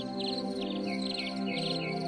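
Calm ambient music of held, sustained chords, which shift to a lower chord about one and a half seconds in. Over it runs a nature-sound layer of short, high, repeated chirps, several a second.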